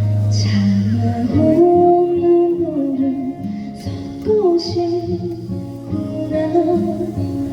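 A woman singing a song live with held, gliding notes over a backing track with guitar.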